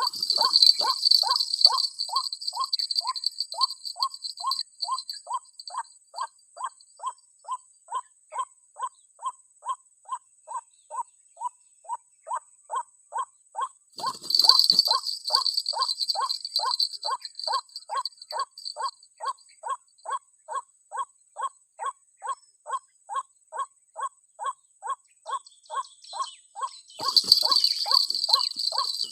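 White-breasted waterhen (ruak-ruak) call: one short note repeated at a very even pace, about twice a second. Insects buzz high over it at the start, again from about 14 to 19 seconds, and near the end.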